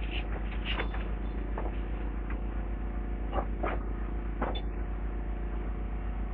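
Demolition excavator's engine running steadily, with a few short knocks and clatters of debris being moved.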